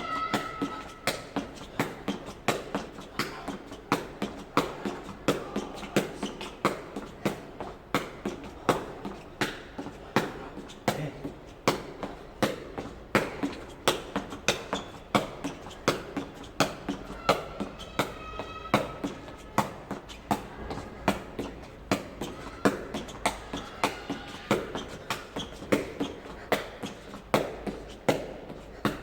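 Jegi (Korean shuttlecock) being kicked over and over by the inside of the foot, a steady run of light taps about two a second.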